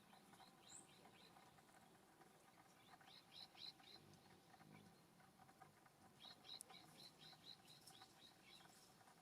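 Faint songbird song: three runs of quick, evenly repeated chirps, the longest near the end at about five notes a second.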